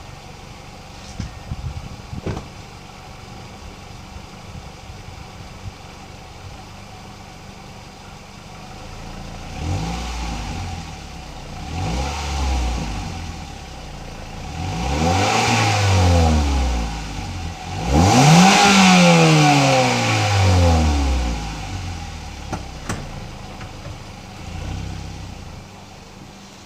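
2010 Mazda 3's 2.5-litre four-cylinder engine through the stock exhaust, idling and then revved several times. Each rev rises quickly and falls back more slowly, the revs growing higher up to the biggest and loudest about two-thirds of the way through, with a small blip near the end before it settles back to idle.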